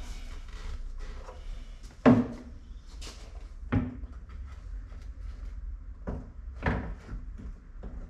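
A few sharp knocks and clunks of parts being handled on a car door, the loudest about two seconds in, with lighter rattling and rustling between them.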